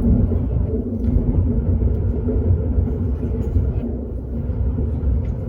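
Steady low rumble of a Hokuriku Shinkansen train running, heard from inside the passenger cabin, with a faint steady hum in it.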